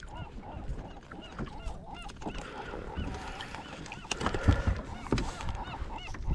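Birds calling over and over with short, high, honking calls, with some low knocks of handling in the background.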